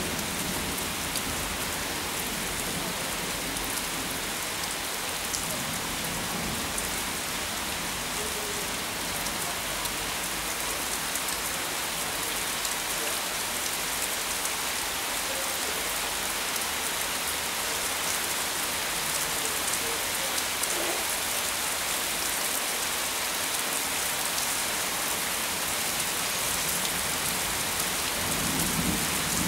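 Steady rain falling on a leafy tree, a dense patter of drops. A low rumble swells briefly near the end.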